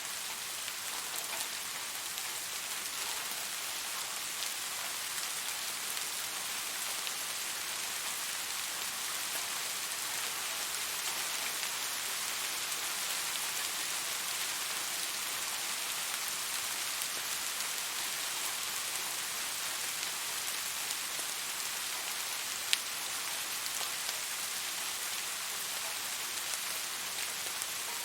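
Steady rain falling: an even hiss of rain with scattered drop ticks, and one sharp, louder drop tick late on.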